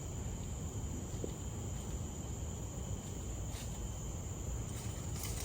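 Steady high-pitched drone of tropical forest insects, over a low, even rumble.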